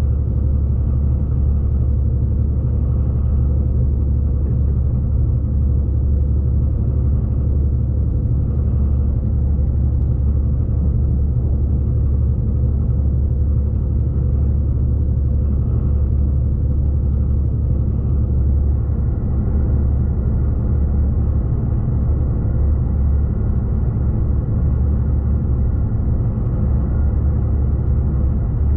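Steady low rumble of a V/Line passenger train running along the line, heard from on board.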